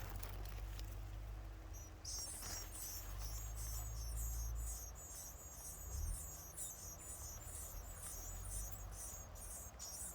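Nestling birds begging: rapid, repeated high-pitched cheeps, two to three a second, starting about two seconds in, over a low rumble.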